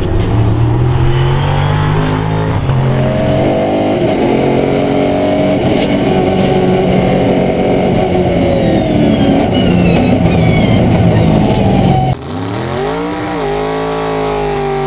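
Car engines running and revving, their pitch climbing and falling as they accelerate. About twelve seconds in the sound cuts to another engine, which revs up and back down.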